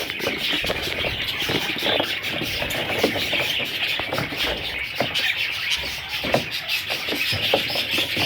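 Budgerigars chirping and chattering without a break, a dense overlapping chatter of several birds, with occasional small clicks and taps.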